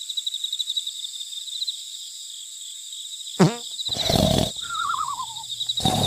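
Edited cartoon sound effects over a steady high trill: a quick falling whistle about halfway through, a short noisy burst, then a wobbly descending tone and a second burst near the end.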